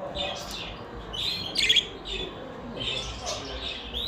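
Finch song, as from a canary or goldfinch: a run of quick high chirps and trills, loudest in a burst about one and a half seconds in.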